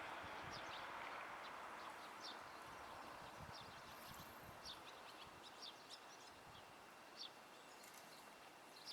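Faint, short, high bird chirps, many of them scattered irregularly, over a soft rushing background noise that fades away over the first few seconds.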